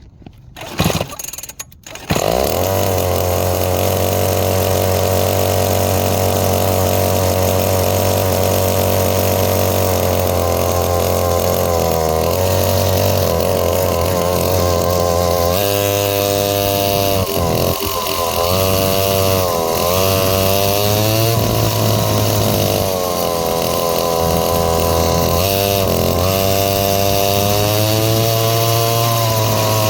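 Small dirt bike engine starting about two seconds in after a few short sharp sounds, running at a steady idle, then revved again and again from about halfway, its pitch rising and falling with each blip. The rider says the bike sounds a little different than usual.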